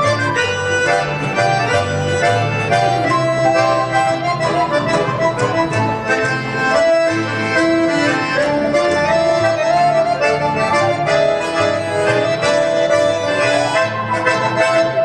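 Accordion-family instrument playing an instrumental introduction: held chords over a rhythmic bass accompaniment.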